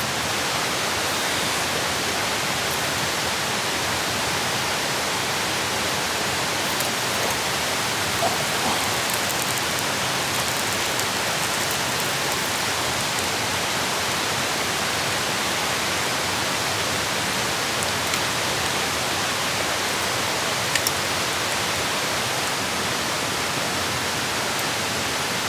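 Meat sizzling steadily in a hot pan over a campfire, with a few small pops.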